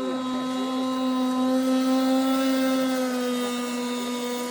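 Small gasoline engine of a model speedboat running flat out, a steady buzzing note that grows louder toward the middle and then eases slightly.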